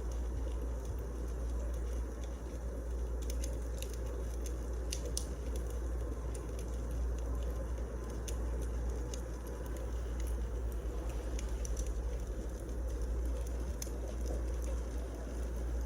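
Wood fire burning in a fireplace: a steady low rumble with small crackles and pops scattered irregularly through it.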